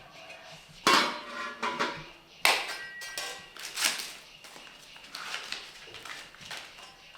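Clattering of metal utensils or pots: three sharper knocks with a short ringing after each, about a second in, at two and a half seconds and at four seconds, followed by lighter clinks.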